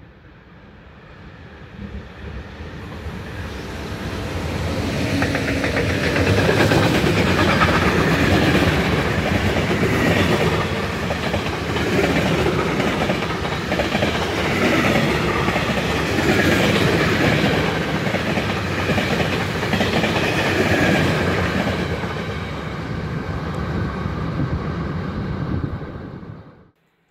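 Freight train of empty flat wagons passing close by, its wheels and wagons clattering. The sound builds over the first few seconds as the train approaches, stays loud and steady, then cuts off abruptly near the end.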